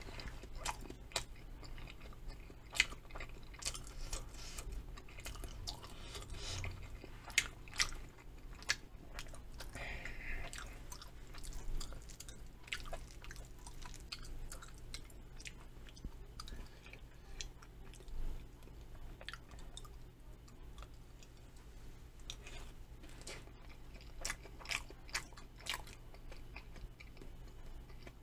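A person chewing and biting a mouthful of egg fried rice, with irregular small clicks and crunches.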